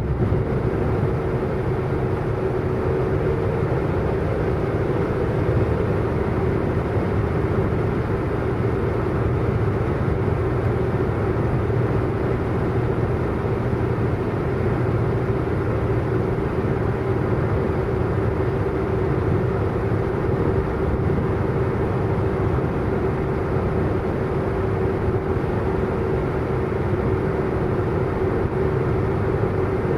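Car driving fast at a steady speed: an even engine drone with road and tyre noise. There is no revving or gear change.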